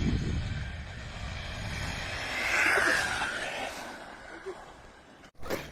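Evmore 1:16 4WD RC car with a brushless motor driving at speed, its motor whir and tyre noise swelling to a peak about halfway through and then fading as it runs away. A sudden break near the end is followed by a few sharp clicks.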